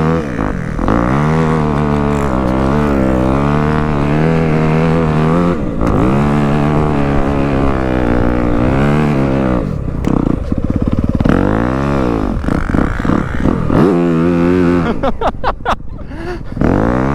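Dirt bike engine revving up and down under throttle, its pitch climbing and falling again and again as the bike is ridden and drifted. Near the end it drops to a low, uneven putter before picking up again.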